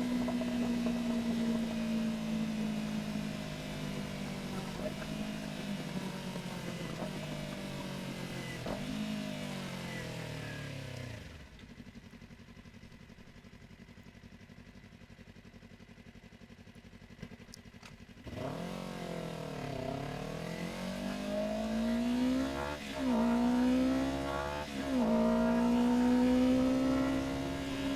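Yamaha R3's 321 cc parallel-twin engine heard from the rider's seat: it slows down through several downshifts, drops to a quiet idle for about seven seconds, then pulls away and accelerates through the gears with three or four upshifts.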